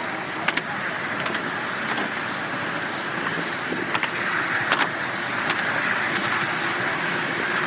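Miniature steam railway train running along its track: a steady running noise with scattered sharp clicks at irregular intervals.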